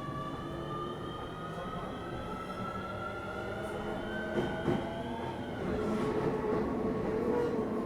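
Keio 7000-series electric train pulling away: the traction equipment gives a whine of several tones climbing in pitch together, which cuts off about five and a half seconds in, over the steady rumble of the running gear.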